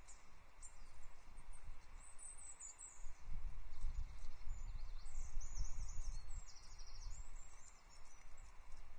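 Small songbirds of the tit family calling with short, high, thin chirps and twittering, busiest from about three seconds in. A fluctuating low rumble runs underneath.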